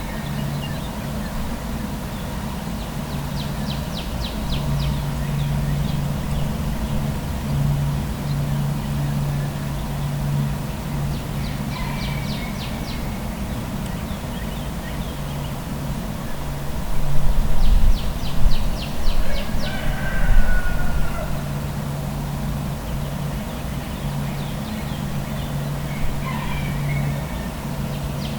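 Outdoor morning ambience: a steady low hum of traffic under birds singing. Every several seconds a bird gives a quick, rapid high trill, with shorter chirps in between, and louder low rumbles come about two-thirds of the way through.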